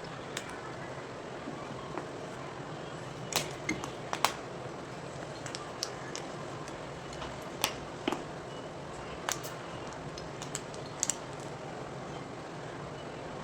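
Gym chalk being twisted and crushed, giving irregular sharp cracks and crunches, loudest about four seconds in, over a steady background hiss.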